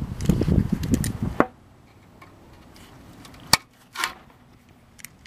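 Handling rumble on the camera microphone for about a second and a half, ending in a sharp click, then a few isolated sharp metallic clicks and knocks from tools and brake parts being handled.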